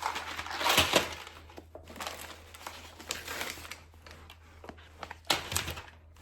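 Plastic grocery packaging rustling and crinkling in irregular bursts as items are handled, loudest about a second in and again near the end.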